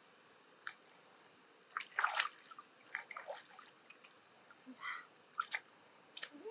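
Wet clicks, squelches and drips from handling a freshwater pearl mussel: a run of short, uneven sounds, the loudest cluster about two seconds in.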